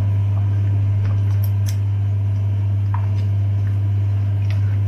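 A steady, loud low hum, with a few faint light clicks over it.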